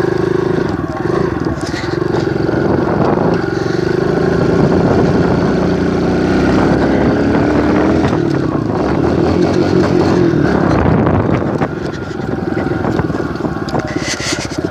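Kawasaki KLX 110 dirt bike's small single-cylinder four-stroke engine running while riding, its pitch rising and falling with the throttle, easing off a little near the end.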